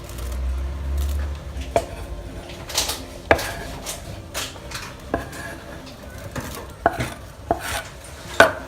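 Irregular clinks and knocks of a utensil against a dish and a pot as shredded chicken is scraped into a pot of soup, some strikes with a short metallic ring.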